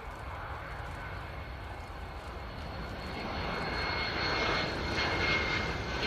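Boeing 757 freighter's two Rolls-Royce RB211 turbofans running as it flies a low pass in landing configuration, the jet noise growing louder about halfway through with a steady high whine over it.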